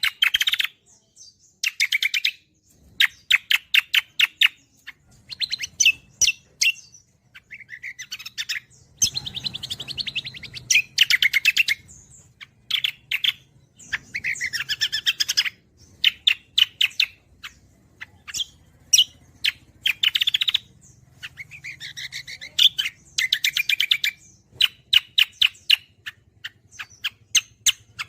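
Cucak kombo singing in fast gacor style: a run of rapid chattering trill phrases, each lasting one to two seconds and separated by short pauses.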